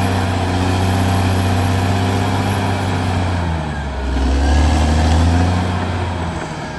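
Caterpillar D6R XL bulldozer's diesel engine running. Its pitch drops and it grows louder about halfway through, then eases off near the end.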